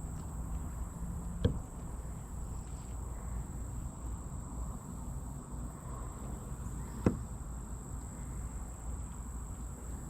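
Two sharp knocks, about five and a half seconds apart, over a steady low rumble and a thin, steady high whine.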